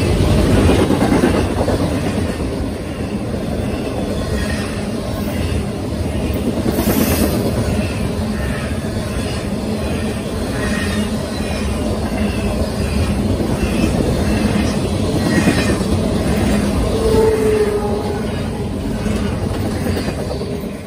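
Freight train's intermodal well cars rolling past: a steady rumble of steel wheels on the rails with a regular clickety-clack over the rail joints.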